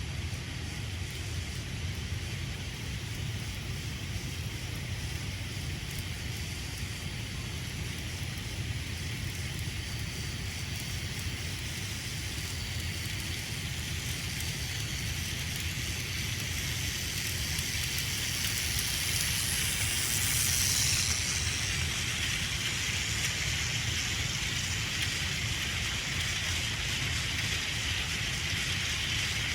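Battery-powered Plarail toy Thomas train running on plastic track: a steady motor whir with a rattle of wheels and cars. It grows louder about two-thirds of the way through as the train passes close by.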